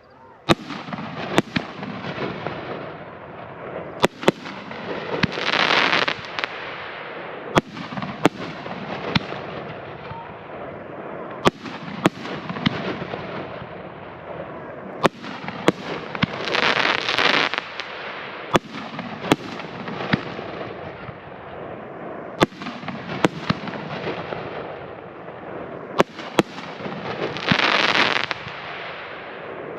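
2-inch double-break NOAB firework cake firing shot after shot: sharp booming reports every second or so, often in quick pairs as each shell breaks twice. About every ten seconds a louder hissing burst swells for a second.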